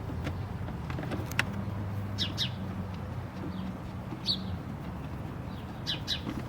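Several short, high bird chirps over a steady low hum, with a few faint clicks.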